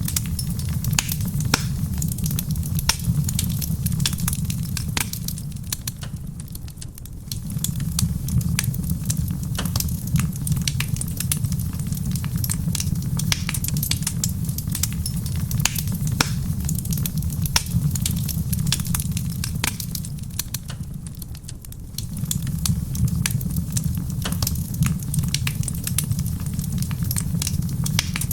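Wood fire crackling in a stone fireplace, with frequent sharp pops and snaps over a steady low rumble. The rumble fades briefly twice, about seven seconds in and again near twenty-one seconds.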